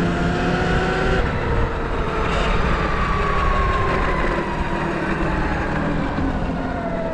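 A dirt bike running along the street under heavy rushing noise, its pitch falling slowly over several seconds as it eases off.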